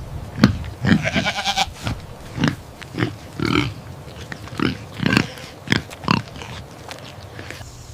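Farm animal making a series of short calls, about a dozen in all, with a longer, higher-pitched call about a second in.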